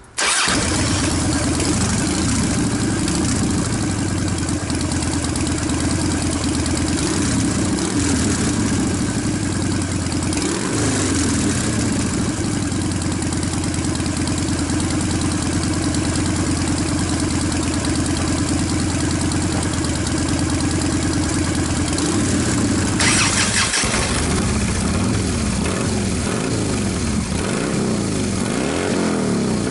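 2006 Harley-Davidson FXDL Dyna Low Rider's V-twin engine, fitted with newly swapped mufflers, starts right at the beginning and runs steadily at idle. A little past three-quarters of the way through, the sound changes and the pitch begins to rise and fall, as if the throttle is being blipped.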